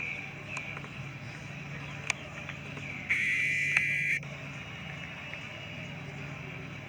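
Boat motor running steadily on the water, a low hum, with a sudden loud hiss lasting about a second midway and a few sharp clicks.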